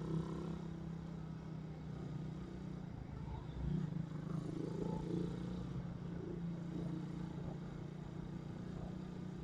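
Suzuki Raider 150 motorcycle engine running steadily, with a slight swell in level a little under four seconds in.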